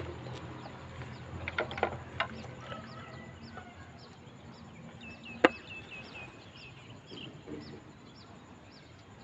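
Wild birds calling in the open: a short high chirp repeated evenly over and over, and a brief stepped trill about five seconds in. A few light clicks come about two seconds in, and one sharp click about five seconds in is the loudest thing.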